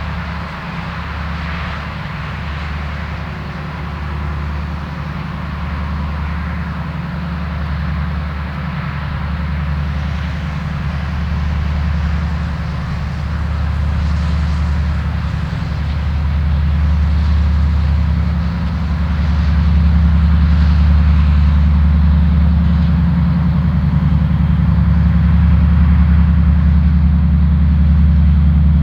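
2TE10U twin-section diesel locomotive's 10D100 opposed-piston two-stroke diesel engines running under load with a deep, steady drone, growing louder as the freight train approaches.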